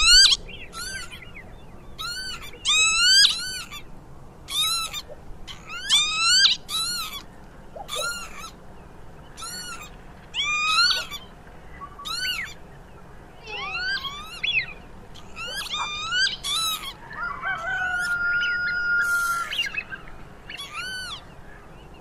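Bird calls: short, high, upward-sweeping whistled chirps, repeated about once a second and often in pairs. Near the end a longer steady whistled note lasts about two seconds.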